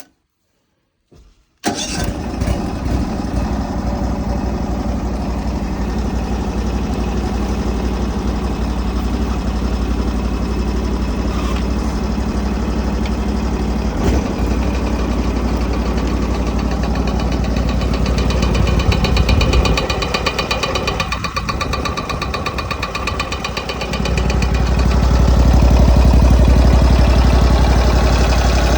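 Yanase Y9-14Gs snowblower engine running, coming in abruptly after a moment of silence. It dips briefly a little over twenty seconds in, then runs louder and deeper. The machine has an abnormal clattering that the owner hears when the auger turns with the engine warm, along with side-to-side shaking, and its cause is not yet known.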